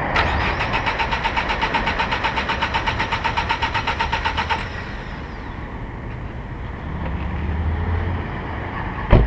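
Car engine being cranked by its starter motor, turning over in a fast, even rhythm without catching, because no fuel is reaching it (the fuel pump fuse has blown). The cranking stops about four and a half seconds in, leaving a steadier, lower noise, with a sharp click near the end.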